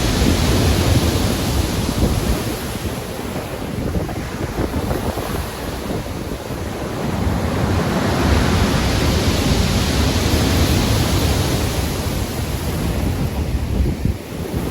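Heavy ocean waves breaking and washing in a storm, a loud continuous surf noise that swells and ebbs every few seconds, with wind buffeting the microphone.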